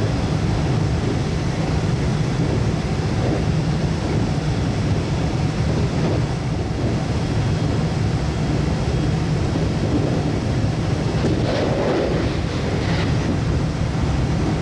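Steady running noise of a JR West 521 series electric train at speed, heard inside near the cab: a deep, even rumble of wheels on rail. About twelve seconds in, a brief extra rush rides over it as an oncoming train passes on the other track.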